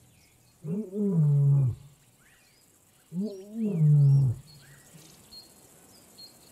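A lion roaring twice, each call a little over a second long, rising then falling in pitch. Faint bird chirps sound behind.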